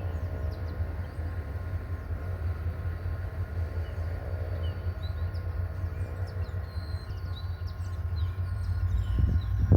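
GT22 diesel-electric locomotive running with a steady low rumble and a few steady tones over it, growing louder with knocking strokes near the end as the train comes closer.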